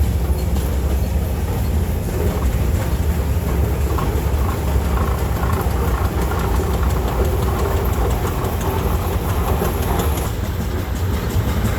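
Steam traction engine running as it passes, a steady low rumble.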